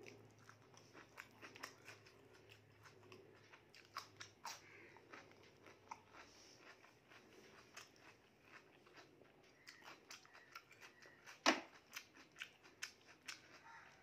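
A person eating rice and mutton curry by hand: faint chewing and mouth clicks, with soft sounds of fingers mixing the food on the plate. One sharper click stands out about eleven seconds in.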